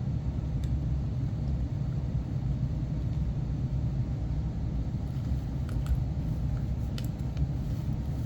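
A steady low rumble, with a few faint clicks about five to seven seconds in.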